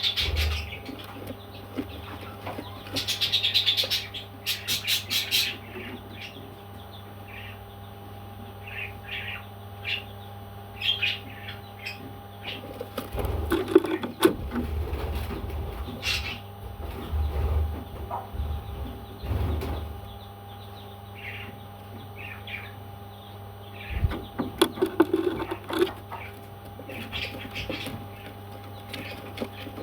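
Pet parrot giving short chirps and chattering calls, with a rapid run of chirps about three seconds in. Midway come a few low thumps and rustles. A steady electrical hum runs underneath.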